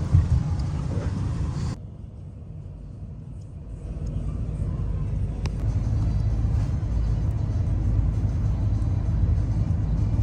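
Low, steady rumble of a moving vehicle. It cuts off abruptly about two seconds in and builds back up from about four seconds.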